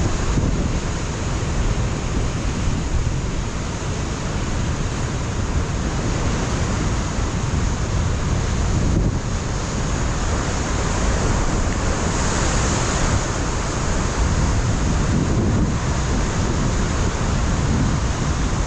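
Pacific surf washing and breaking against a rocky coastline in a steady, dense roar of water, with strong wind rumbling on the microphone; a wave swells a little louder about two-thirds of the way through.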